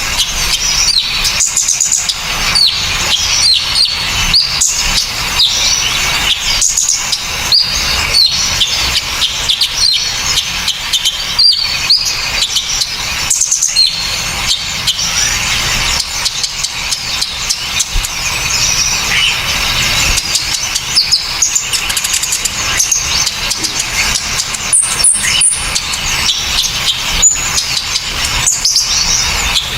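Small birds chirping and twittering in a fast, dense stream of sharp, high notes, a masteran recording meant for songbirds to copy. One brief, higher, thin note comes about 25 seconds in.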